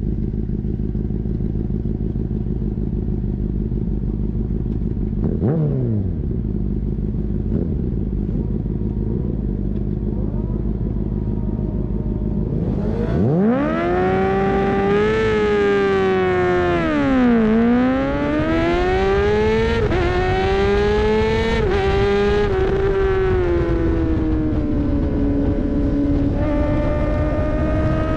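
Racing motorcycle engine running steadily at low revs, then about 13 seconds in it revs up hard and accelerates. Its pitch climbs, dips sharply a few seconds later as it slows, and climbs again.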